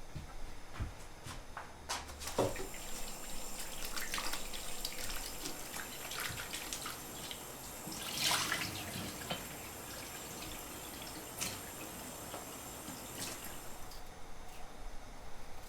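Water running and splashing, with a few light clicks and knocks, and a louder splash about eight seconds in.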